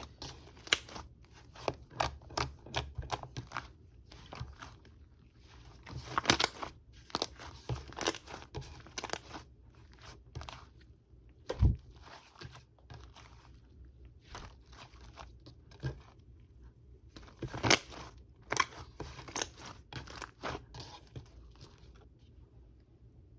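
Cream slime being played with by hand: irregular sticky pops and crackles as it is squeezed, stretched and pressed, with one dull thump about twelve seconds in. The popping dies away near the end.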